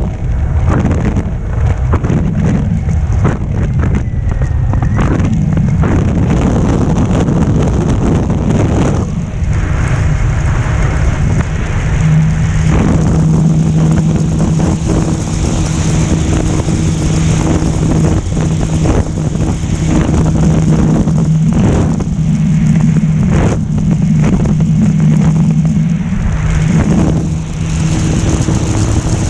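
Wind buffeting the microphone, with the electric motor and propeller of a Carbon-Z Cessna 150 RC model plane. About twelve seconds in, a steady propeller hum comes in and holds for most of the rest, dipping briefly a couple of times.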